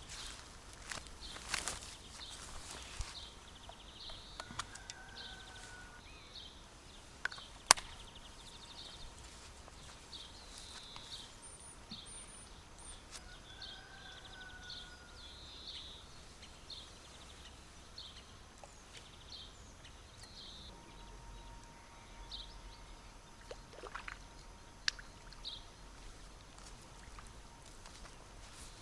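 Quiet outdoor ambience with small birds chirping again and again, two longer whistled bird calls, and one sharp click about eight seconds in.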